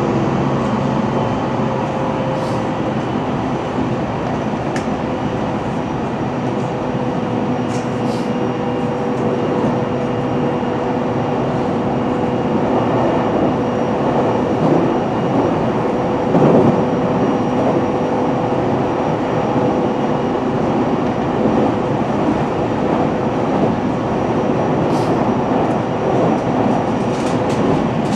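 Running sound of a JR Central 313 series EMU motor car under way: steady wheel-and-rail rumble with a steady traction-motor tone and a few sharp clicks from the track.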